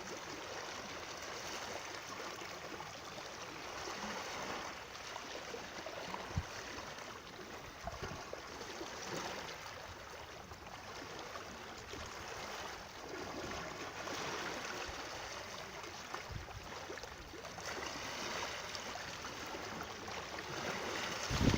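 Steady rush and trickle of a stream, water flowing without a break, with a few soft low knocks, the clearest about six seconds in.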